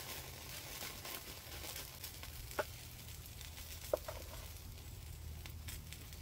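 Food sizzling in a frying pan and on a grill over a wood fire, a faint steady crackle. Two short clinks come in, the second about four seconds in.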